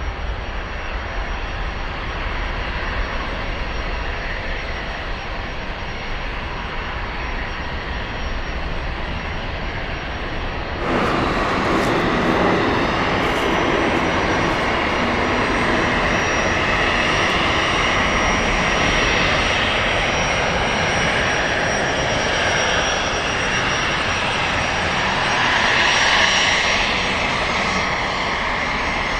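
Jet airliner engine noise: a steady rumble that jumps abruptly louder and brighter about a third of the way in, with a higher whine in it, then swells briefly near the end.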